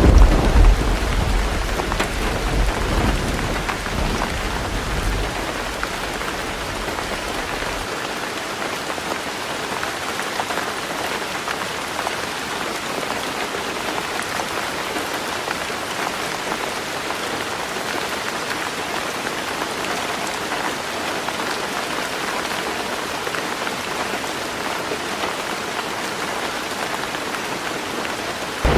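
Heavy rain drumming steadily on a roof, with a low rumble of thunder at the start that dies away about eight seconds in.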